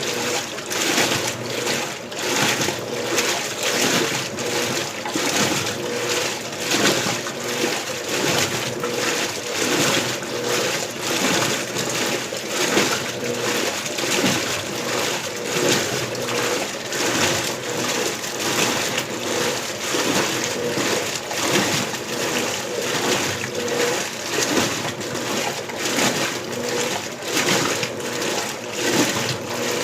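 Electrolux LBU15 top-load washing machine agitating its load in the first rinse: water sloshing and splashing in a steady, regular rhythm of strokes, with a faint motor hum underneath.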